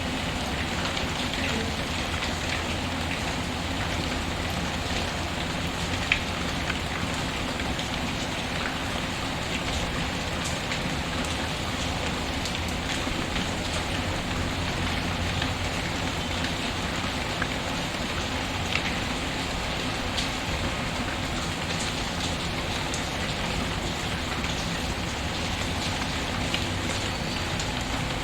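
Steady rain mixed with a crackling wood fire, with a few sharp pops standing out over the even hiss of the rain.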